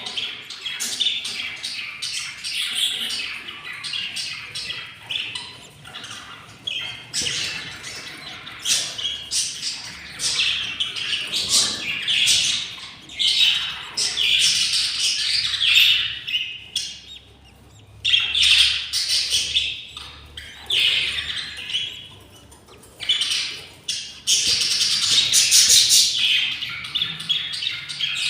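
Budgerigars squawking and chirping in quick, dense runs of calls, with two short lulls in the second half.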